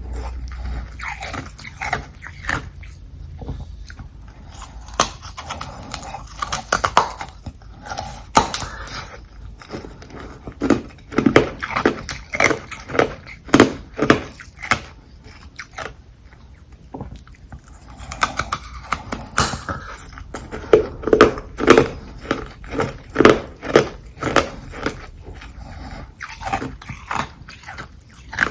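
Close-miked biting and chewing of ice frozen from carbonated water: runs of sharp, crunchy bites with brief quieter pauses between mouthfuls.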